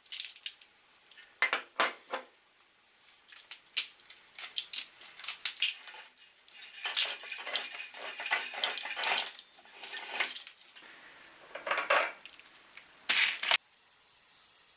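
Matchsticks clattering and snapping against the metal of a meat grinder: irregular sharp clicks and rattles, busiest in the middle, stopping suddenly near the end.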